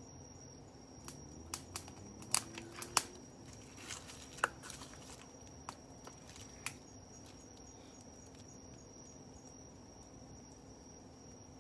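Wood fire crackling, with a scatter of sharp pops and snaps in the first seven seconds or so, then quieter. Crickets keep up a steady high chirr throughout.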